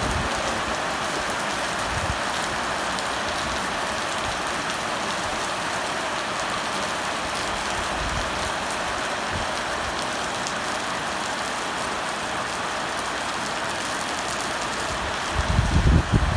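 Heavy monsoon rain falling in a steady downpour. Near the end a loud, uneven low rumble comes in over it.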